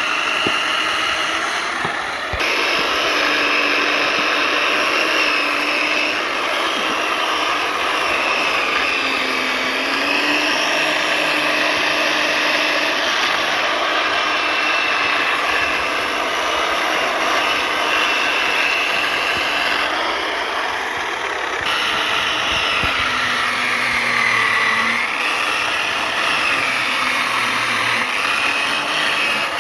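Chainsaw running at high revs while cutting wood, its pitch dipping now and then as the chain bogs down in the cut and recovering. The sound changes abruptly about two seconds in and again past the twenty-second mark.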